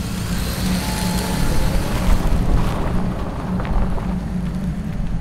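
Steady low rumble of a car driving along a road, engine and road noise with a hiss over it.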